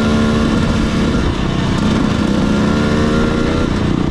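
Dirt bike engine running under load. The revs climb, drop back and climb again, over a steady rush of wind and engine noise.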